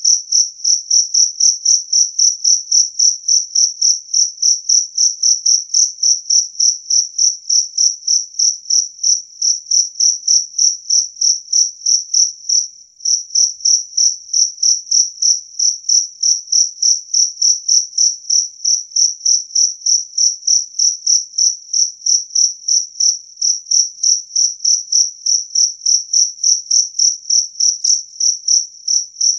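A jangkrik kalung field cricket calling loud and clear, a high, even run of chirps at about three a second, with one brief pause midway.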